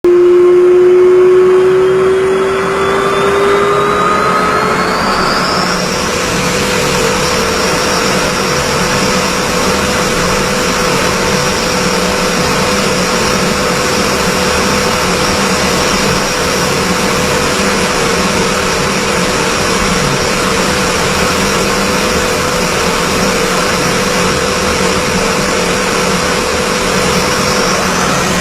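Aircraft engines spooling up to takeoff power: a rising whine over the first six seconds or so, then a steady, loud roar with a held whine on top.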